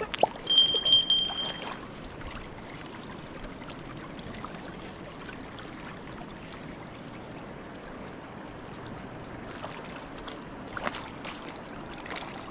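Steady rush of flowing stream water. About half a second in, a brief high-pitched steady tone with a rapid clicking runs for just over a second, the loudest sound here.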